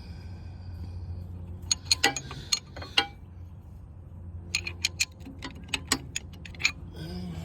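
Worn ratcheting wrench clicking on a starter bolt: a few sharp metallic clicks about two seconds in, then a quicker run of about five clicks a second near the middle, over a steady low hum. The wrench is sloppy and slips rather than biting.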